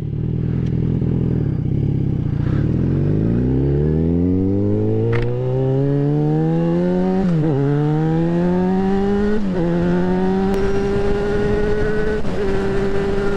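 Yamaha XJ6N's 600 cc inline-four engine accelerating, its pitch rising steadily for several seconds. Revs dip briefly twice, about seven and nine and a half seconds in, as it shifts gear, then settle to a steady cruise.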